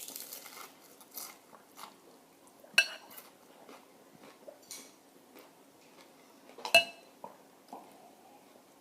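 Eating at a table: soft crunches and small clicks of someone chewing a taco, with two sharp ringing clinks of tableware, about three seconds in and again near seven seconds.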